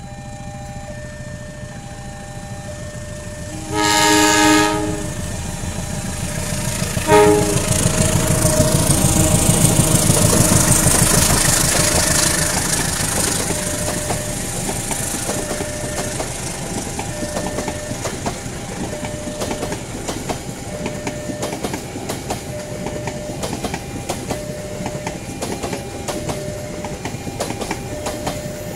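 A CC 201 diesel-electric locomotive sounds its horn, one long blast about four seconds in and a short one about three seconds later, then passes close by with its engine running. Its train of passenger coaches follows, with steady wheel clatter over the rail joints. Throughout, a faint two-tone crossing warning signal repeats.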